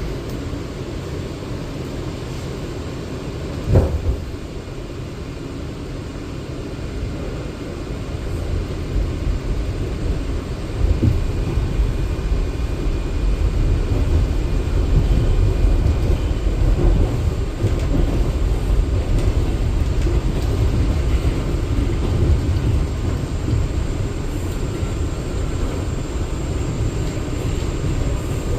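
Inside an R179 subway car, the train running on the rails with a steady low rumble, getting louder about ten seconds in. A single sharp knock sounds about four seconds in.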